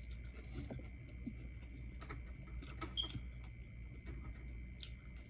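Quiet eating sounds: scattered light clicks and taps at irregular times, over a faint steady high-pitched hum.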